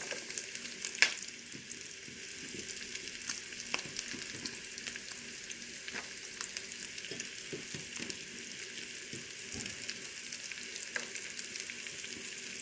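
Minced garlic and sliced pork sizzling in rendered pork fat in a frying pan: a steady high hiss with constant crackling, and a few sharp clicks, the loudest about a second in.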